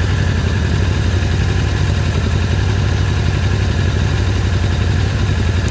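Can-Am Spyder's three-cylinder engine running steadily with a low, even pulse, heard from the rider's seat.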